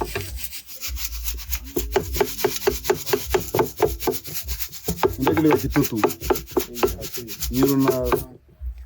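Roasted coffee beans being ground by hand with a pestle in a wooden mortar: rapid, even rubbing and pounding strokes, about four a second, that stop abruptly near the end.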